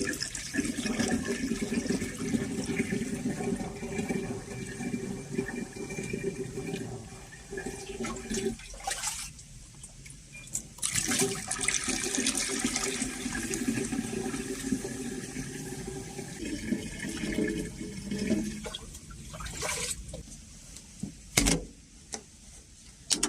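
Mountain spring water pouring and splashing into a container as it is filled. It stops about nine seconds in and starts again some two seconds later, with a few sharp knocks near the end.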